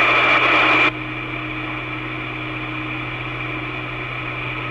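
Two-way radio channel between transmissions: a burst of static hiss that cuts off sharply about a second in, leaving a steady hum with faint steady whine tones.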